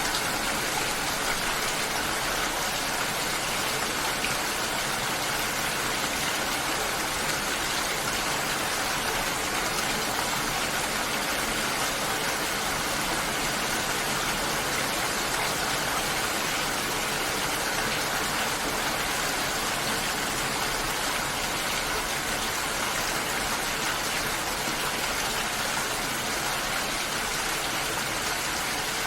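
Steady, unbroken water noise: an even hiss with no distinct drips, tones or rhythm.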